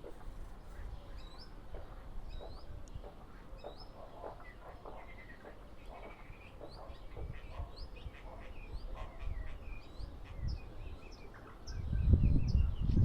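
A songbird chirping and whistling in a rapid run of short, high notes and quick pitch sweeps. Near the end a loud low rumbling noise comes in over it.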